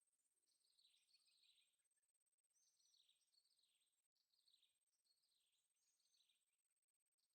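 Very faint bird calls: short chirps that fall in pitch, repeated about once a second, over a thin steady high tone.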